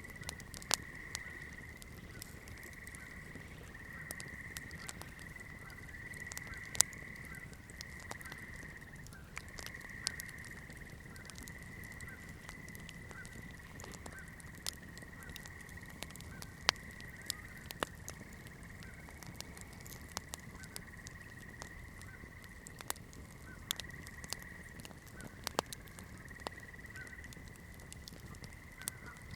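Wood fire crackling, with irregular sharp pops and snaps over a low steady rumble. A steady high-pitched trilling call continues behind it.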